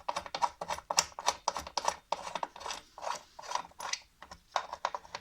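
Irregular mechanical clicking and knocking of tools and metal parts being handled during motor fitting on a washing machine, with a ratchet-like clatter in places.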